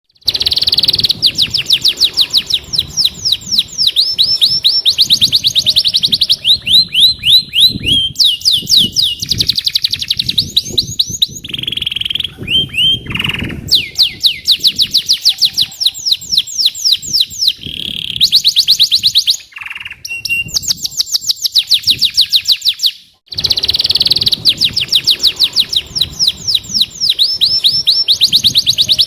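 Domestic canary singing vigorously: long rolling trills of fast, high repeated notes, one phrase after another, with a short break about two-thirds through.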